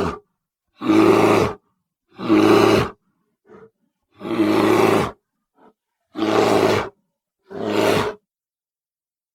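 Bear roaring in a string of separate short roars, five loud ones of under a second each with clean silence between, and two brief faint grunts among them.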